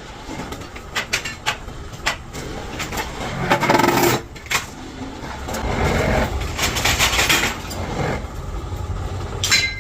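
Workshop noise: repeated sharp metal knocks and clanks, with a machine running louder in stretches partway through.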